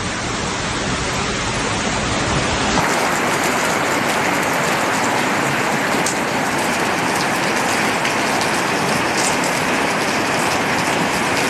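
Heavy rain pouring in a steady, loud hiss. About three seconds in it switches abruptly to a brighter, hissier downpour with a few light ticks of drops.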